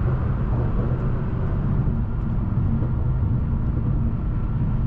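BMW M550i's twin-turbo V8 and exhaust running at a steady low drone while the car cruises, with no revving, over road noise.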